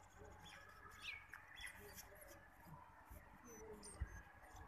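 Near silence with faint, short, high chirps of small birds scattered through it, and a low thump about four seconds in.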